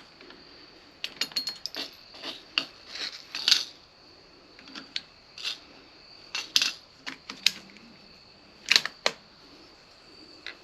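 Irregular small metallic clicks and rattles, some in quick clusters, from a bolt-action .22 rifle's bolt being worked and rounds being handled between shots. A faint steady high whine runs beneath.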